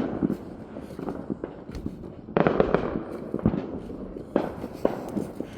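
Consumer fireworks and firecrackers going off, scattered sharp cracks and pops, with a louder run of rapid popping about two and a half seconds in and another a little after four seconds.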